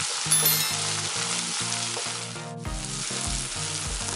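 Chopped tomatoes, onion, garlic and green chilli sizzling in hot oil in a non-stick wok while a spatula stirs them, sautéing the tomatoes until soft. The sizzle briefly dips about two and a half seconds in, and background music with a steady beat plays underneath.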